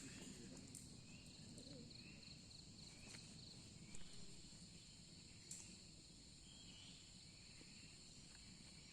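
Faint insect chorus of crickets trilling steadily at a high pitch, with a couple of soft clicks partway through.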